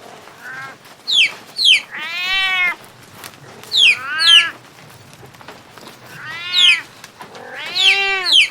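Cat meowing repeatedly: four or five drawn-out meows about a second or two apart, some led by short, high squeaky calls.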